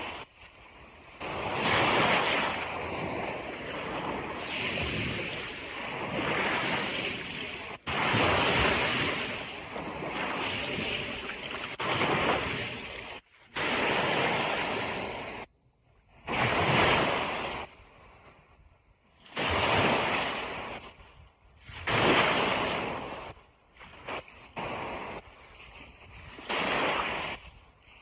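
Ocean waves breaking and washing up a beach, coming in surges every few seconds, some of which end abruptly.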